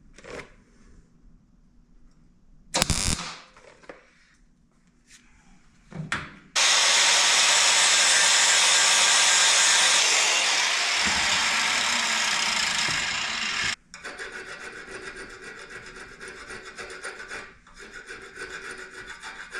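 MIG welding arc burning steadily for about seven seconds, a loud even crackling hiss that cuts off suddenly, as a small weld is laid on a spur's pin. A few short knocks come before it, and a quieter steady fluttering sound follows it.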